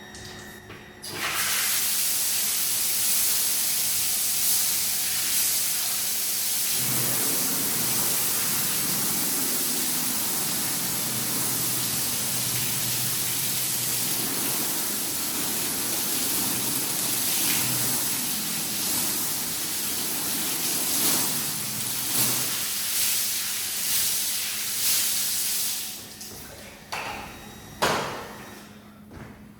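Pressure washer jet spraying water onto a muddy shag rug: a steady hiss that starts about a second in and cuts off near the end, with a lower rumble joining through the middle. A sharp knock follows shortly after the spray stops.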